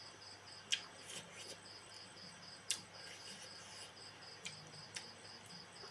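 A cricket chirping in a steady run of pulses, about five a second. A few sharp clicks sound over it, the loudest about a second in and just under three seconds in.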